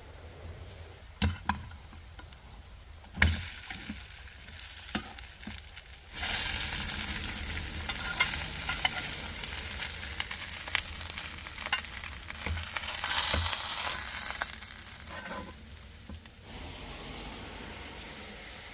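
Food sizzling in a hot frying pan. It starts suddenly about six seconds in, after a couple of knocks, with small utensil clicks through it, and dies down near the end.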